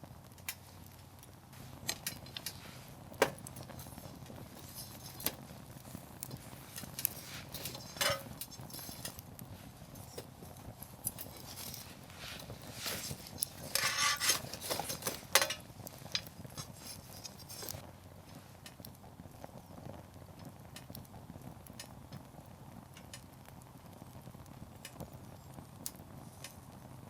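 Burning firewood in a campfire crackling, with scattered sharp pops and a busier burst of crackling about halfway through, then fewer pops.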